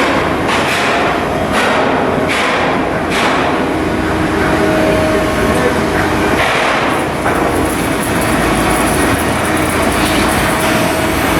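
Shipyard work on steel hull blocks: a loud, steady mechanical din, with a few sharp metal knocks in the first three seconds.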